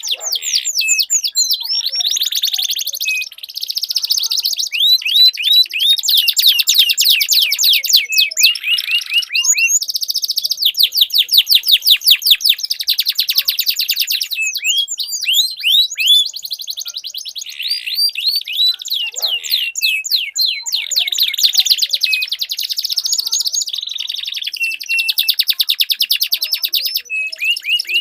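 Domestic canaries singing without a break in long, rapid trills and rolls of fast repeated sweeping notes, one rolling phrase running straight into the next.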